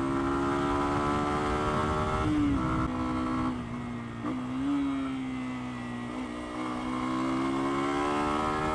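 Lexmoto Venom 125's small single-cylinder engine running under way. Its pitch drops about two and a half seconds in as the revs come down, dips briefly again near the middle, then climbs steadily over the last couple of seconds as the bike accelerates.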